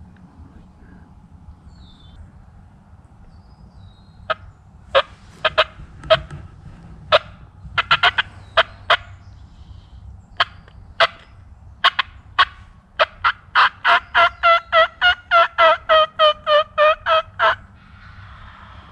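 Turkey yelps: a few scattered sharp yelps and clucks starting about four seconds in, then a fast, even run of about nineteen yelps, roughly four a second, that stops near the end.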